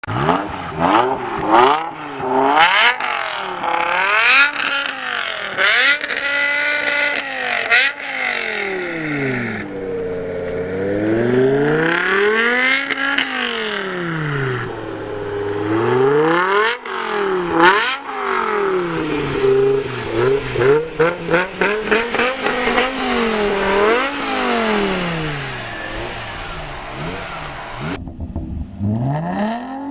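A performance car engine through a loud exhaust, revving up and falling back again and again, with sharp crackles between the revs. The sound changes about two seconds before the end.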